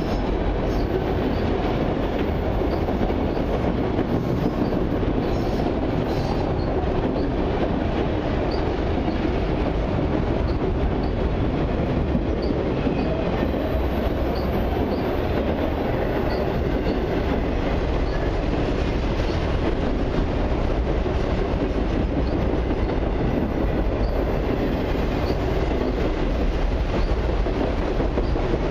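Freight train of multilevel autorack cars rolling past close by: a steady rumble and clatter of steel wheels on the rails, with a faint thin wheel squeal at times in the middle.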